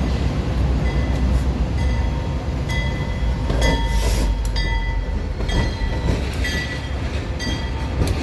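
A train rumbling past, heavy and steady, with a bell striking about once a second from about a second in.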